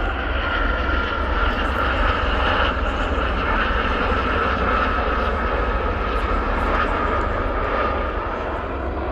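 Gama light military helicopter, an armed Gazelle, flying past. A steady turbine whine sits over the low drone of the rotor.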